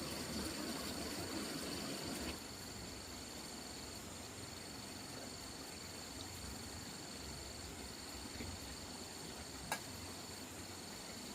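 Insects, crickets or cicadas, chirring steadily as two constant high-pitched tones over a low background hiss that drops a couple of seconds in. A single sharp click near the end.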